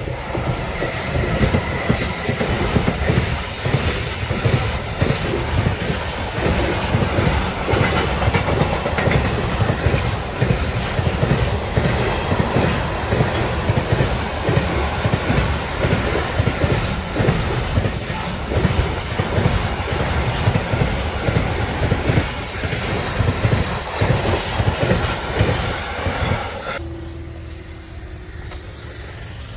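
Electric-hauled intermodal freight train passing close by: a steady, loud rattle and clatter of wheels on the rails, with a brief high squeal about a second in. The noise cuts off suddenly near the end as the last wagon goes by.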